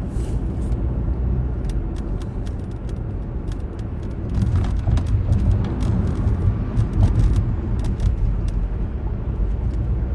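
Car road noise heard from inside the cabin: a steady low rumble from the moving car, with scattered faint clicks.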